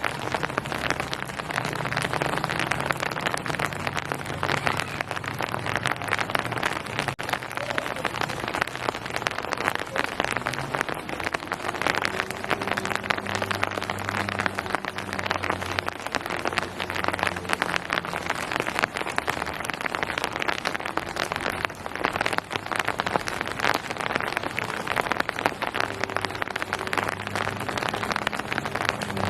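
Steady rain falling on surfaces, a dense even patter of drops. A faint low hum swells and fades underneath.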